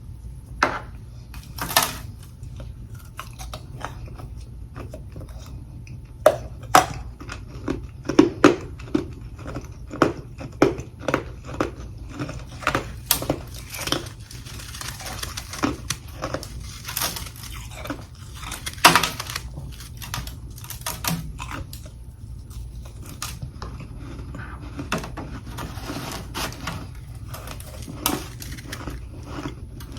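A person biting and chewing humidifier freezer frost: irregular sharp crunches, several a second at times, with softer crackling chews between them.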